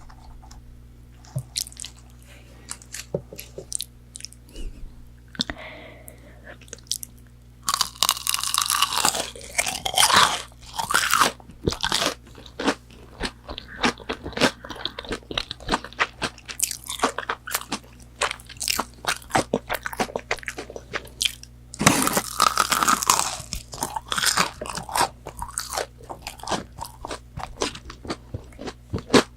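Close-miked biting and chewing of McDonald's chicken nuggets. Loud crisp crunches of the breaded coating come about 8 and 22 seconds in, with a run of small chewing clicks between and after them; the first few seconds hold only a few faint mouth clicks.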